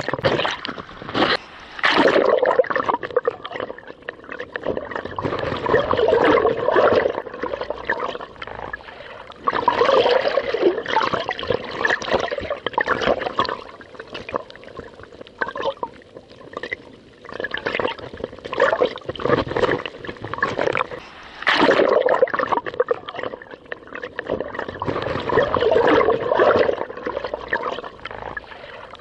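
Sea waves sloshing and breaking against rocks and a kayak hull, coming in surges every few seconds, with a few sharp slaps near the start.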